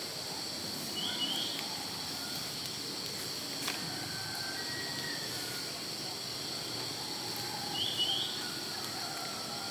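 Steady high-pitched drone of an insect chorus in a forest, with birds calling over it: a short rising chirp about a second in and again near the end, and soft whistled notes between them.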